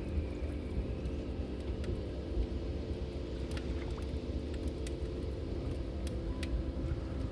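Log fire burning in a fireplace: a steady low rumble with sparse, sharp crackles and pops from the wood, a few seconds apart.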